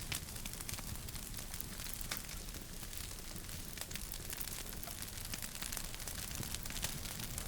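Wood fire crackling in a fireplace: irregular sharp snaps and pops, several a second, over a steady low rush of burning.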